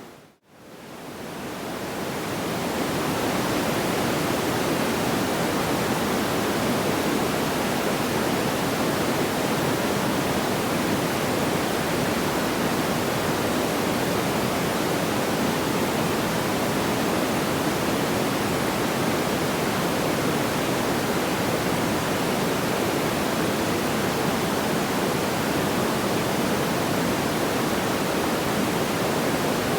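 Steady, even rushing noise like pink noise, with no audible crackles or pops. It fades out to silence just after the start and swells back up over about three seconds, the seam where the loop restarts.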